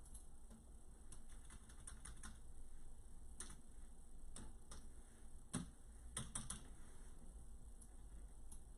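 Irregular light clicks and taps of typing, with a few louder taps about five and a half and six and a half seconds in.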